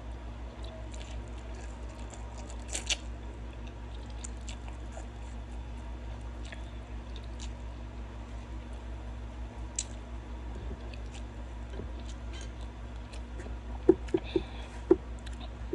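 Close-up mouth sounds of a person eating spicy instant noodles: wet chewing and squishing with scattered small clicks, one louder click about 3 seconds in and a few sharper ones near the end, over a steady low hum.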